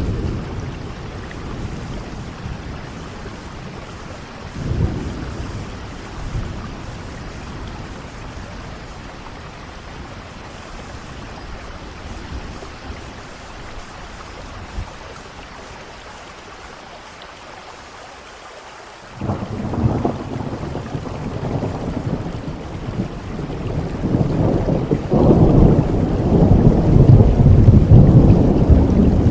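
Steady rain with thunder rumbling. There is a short rumble about five seconds in, then a quieter spell. About two-thirds of the way through, a loud rolling peal of thunder sets in suddenly and grows louder toward the end.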